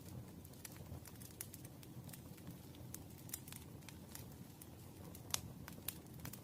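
Campfire crackling: irregular sharp pops and snaps over a low, steady rumble, with one louder pop about five seconds in.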